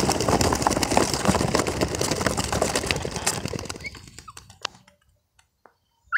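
A flock of young racing pigeons flapping their wings as they take off together, a dense clatter of wingbeats that dies away after about four seconds.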